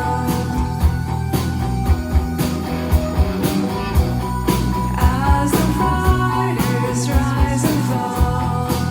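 Live band music: a synth-pop/new-wave rock song with a steady drum beat of about two hits a second under bass, guitar and held synth tones.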